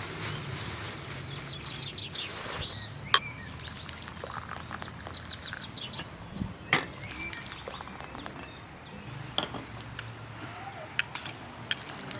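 Small birds chirping in short repeated series over a steady low hum, with a few sharp clicks and knocks.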